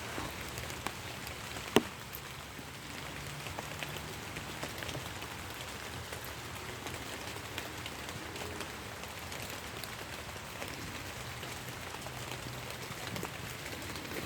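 Steady rain falling, with scattered individual drop ticks and one sharp tap a little under two seconds in.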